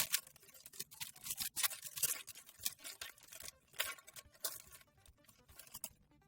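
Foil booster pack wrapper being crinkled and torn open: a quick string of sharp crackles and rustles that dies down near the end.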